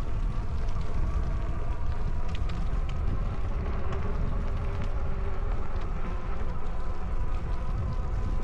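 Wind buffeting the microphone on a moving e-bike, with a steady whine from the electric hub motor and a few light clicks from the ride.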